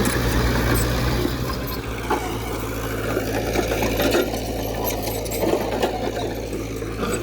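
Heavy diesel earthmoving machine running steadily: a low engine hum with a fast mechanical clatter over it and a few sharp knocks.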